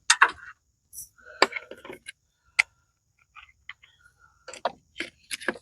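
Metal hand tools clinking and clanking as they are handled: about half a dozen sharp metallic clicks spread over a few seconds, a couple of them ringing briefly.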